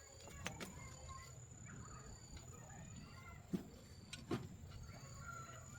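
Faint, quiet background with a steady thin high tone, broken by three short, sharp knocks: about half a second in, at three and a half seconds, and again just over four seconds in.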